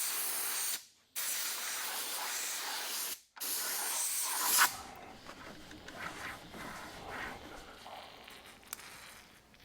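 Aerosol can of brake cleaner spraying in three long bursts with two brief breaks, stopping about four and a half seconds in. After that come faint small clicks and rubbing.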